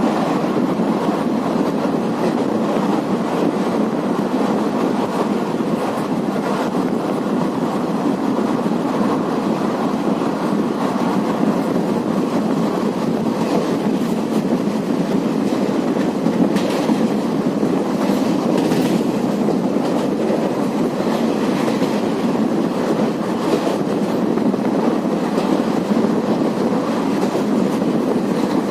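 Indian Railways passenger train running along the track, heard from on board: a steady rumble of wheels on rail with an occasional faint click.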